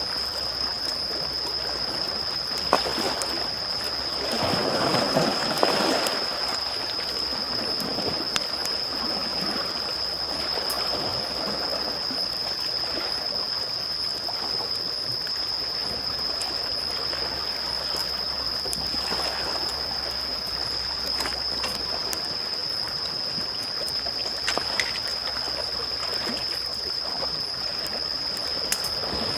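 Small waves lapping and washing on a shore, with a swell about four to six seconds in, and a campfire crackling with occasional sharp pops. A steady high-pitched whine runs under it all.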